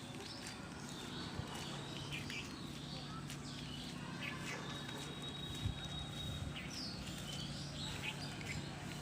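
Small birds chirping in short, high calls over a steady low hum.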